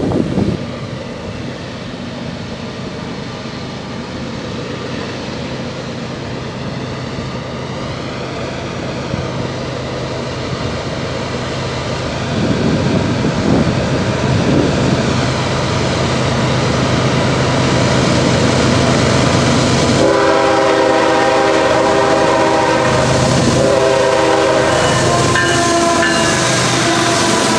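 CSX coal train's GE diesel locomotives approaching and passing, their engine drone growing steadily louder. About two-thirds of the way in the locomotive horn sounds a long chord, then a second long blast, lower in pitch, as the lead unit and the first coal hoppers roll past.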